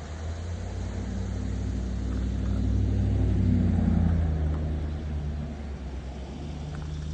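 A motor vehicle's engine hum rising as it approaches, loudest around the middle, then fading as it drives past.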